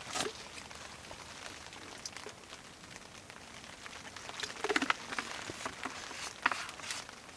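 Steady patter of rain, with a few soft taps and knocks about two-thirds of the way through.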